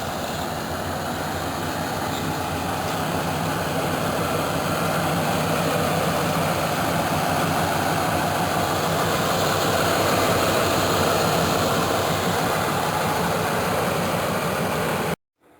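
1985 Chevrolet Caprice's 305 cubic-inch small-block V8 running steadily just after a cold start, growing a little louder over the first few seconds. The sound cuts off abruptly just before the end.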